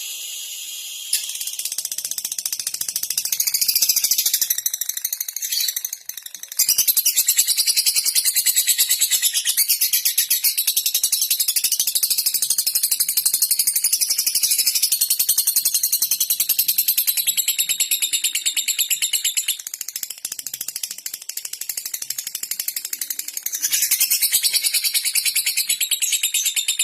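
Lovebird singing a long, rapid, high-pitched chattering trill made of fast ticking notes, the 'ngetik/ngekek' song, breaking off briefly about six seconds in.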